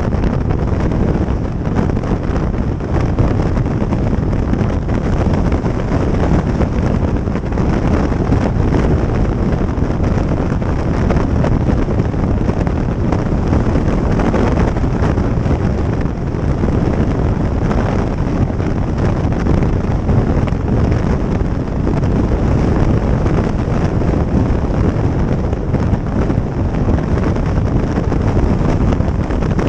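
Steady wind buffeting on the microphone over the motorcycle's engine and road noise while riding at speed.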